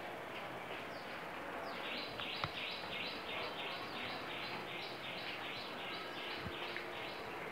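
A bird chirping rapidly and repeatedly, about three short chirps a second, over the faint hiss of vegetables frying in a pan.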